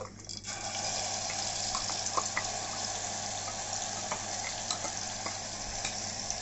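Wet green masala paste dropped into hot oil in a steel pot, sizzling with a steady hiss and scattered small pops. The sizzle starts suddenly about half a second in.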